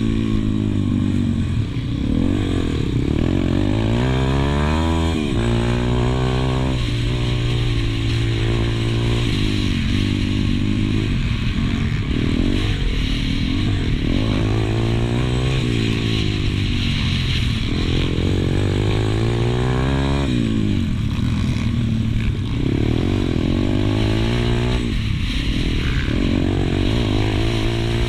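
Single-cylinder pit bike engine heard on board at race pace, its revs climbing and falling every few seconds as it accelerates, shifts and backs off for corners.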